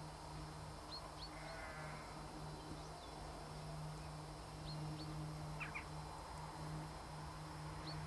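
Scattered short, high chirps of small birds, a few at a time about a second in, near the middle and again at the end, over a steady low hum.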